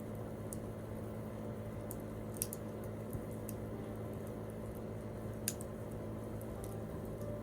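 Wood campfire burning with a low steady hiss and occasional sharp crackling pops, the loudest about two and a half seconds in and another a little after five seconds.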